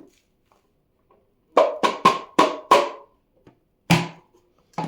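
A run of five sharp knocks about a quarter-second apart, each with a short hollow ring, then two more single knocks.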